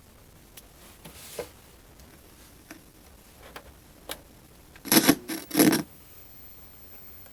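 A 1987 boombox switched on and tested after cleaning: a few light clicks, then a quick cluster of about four loud, short scraping noises about five seconds in.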